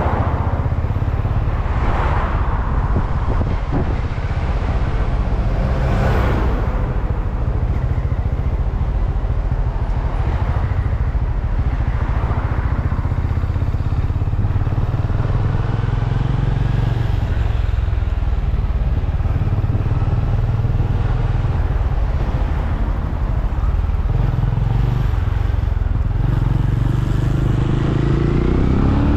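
Benelli Imperial 400's single-cylinder engine running steadily as the motorcycle rides along at road speed.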